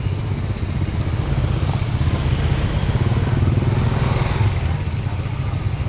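A small motorbike engine running close by, growing louder towards the middle and then easing off as it passes.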